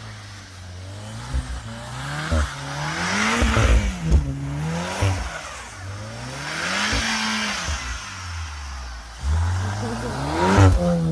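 A turbocharged four-cylinder hot-hatch engine revving up and down, its pitch climbing to a peak about three and a half seconds in and again about seven seconds in. A rushing hiss rises with each peak, and short sharp cracks come between the revs.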